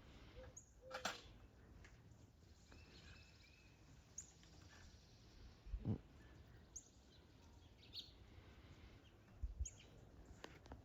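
Quiet outdoor background with faint, scattered songbird chirps and a few short knocks.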